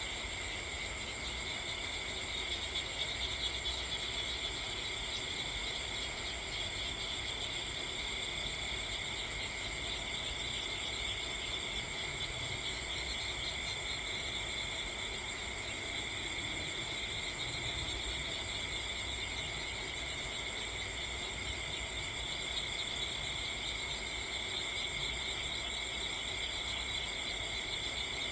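Steady chorus of crickets trilling at several pitches at once, unbroken throughout.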